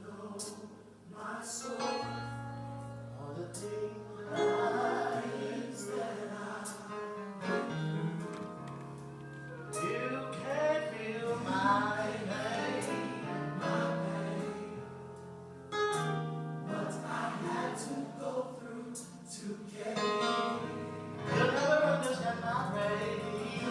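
Gospel worship music: a choir and congregation singing over instrumental accompaniment with sustained bass notes.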